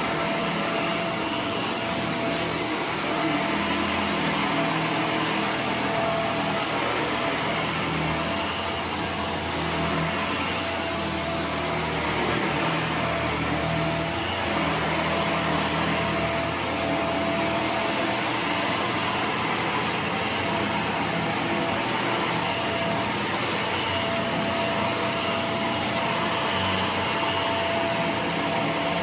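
Vacuum cleaner running steadily, its motor noise carrying a constant whine.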